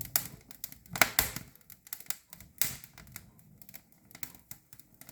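Damp bamboo and pallet wood burning in a cast-iron stove, crackling with irregular sharp pops and snaps, several a second. The popping comes from moisture in the wood.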